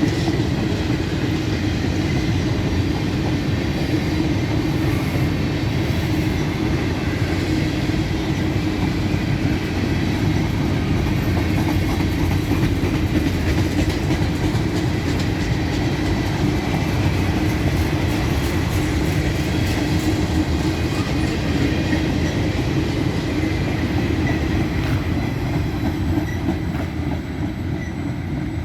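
Empty grain cars of a freight train rolling past, a steady noise of steel wheels on the rails.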